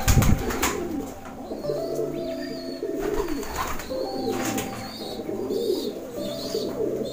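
Birds calling over and over: a low repeated call with short high calls recurring about once a second.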